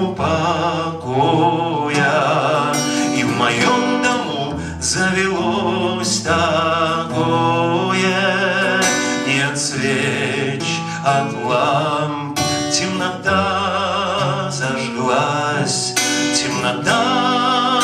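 A man singing a slow song to his own acoustic guitar accompaniment, the voice held on long wavering notes over plucked and strummed chords.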